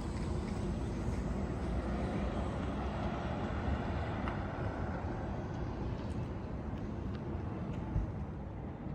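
Steady low rumble of city traffic, with a few faint clicks and one short low thump near the end.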